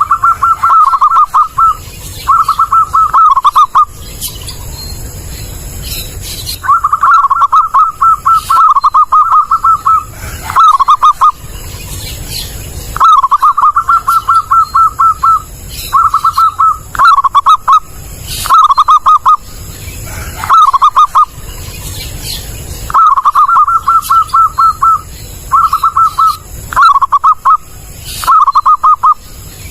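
Zebra dove (perkutut) cooing: repeated phrases of rapid, bubbling coo notes, each phrase lasting one to three seconds with short pauses between.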